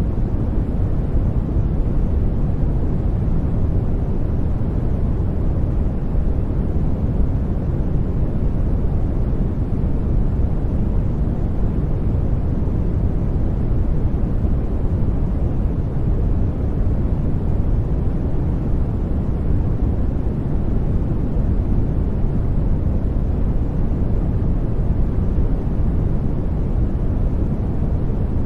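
Steady, unbroken sleep noise track, deep and even, with most of its weight in the low end and little hiss on top.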